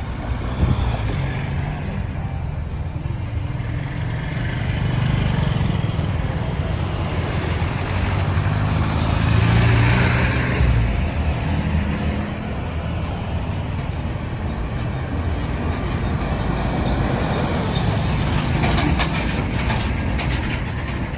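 Road traffic: the engines and tyre noise of passing trucks, cars and motorbikes, with a steady low rumble that swells loudest about halfway through as a vehicle passes close. A run of rapid ticking comes near the end.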